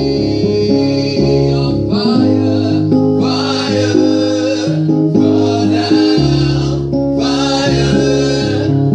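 Gospel worship song: voices sing phrases over guitar and bass accompaniment, the singing coming in about two seconds in and returning every couple of seconds.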